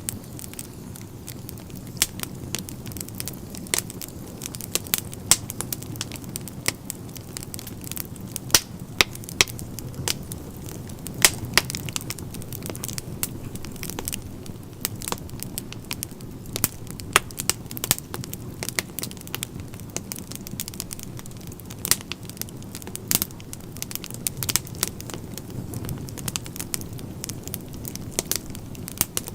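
Wood fire crackling in a fireplace: frequent sharp pops and snaps at irregular intervals, some much louder than others, over a steady low rumble of the burning logs.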